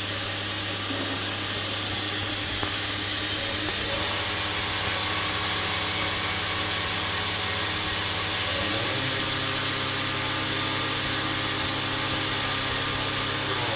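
Grinding machine running steadily, a hum of several steady tones over a hiss, its tone shifting about four seconds in and again near nine seconds in.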